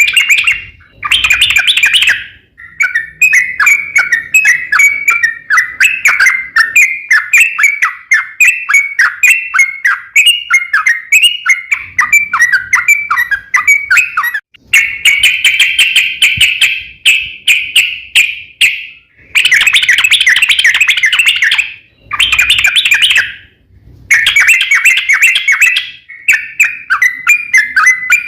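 Yellow-vented bulbul song: a long, fast run of chattering, warbling notes, loud, broken by short pauses several times.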